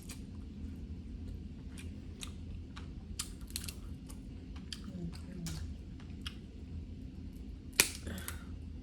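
Snow crab leg shells being cracked and picked apart by hand while eating, a string of crisp shell clicks and crunches with one louder snap near the end.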